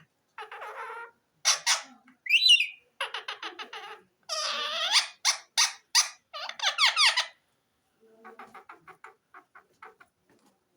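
Indian ringneck parakeet chattering and squawking: runs of rapid pulsed chatter, a shrill rising squawk, then harsh screeches with falling pitch sweeps. The calls grow fainter near the end.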